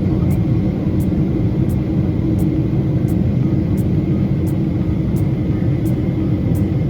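Steady drone of a Boeing 777 airliner cabin in cruise: engine and airflow noise, a low, even rumble with a faint steady hum.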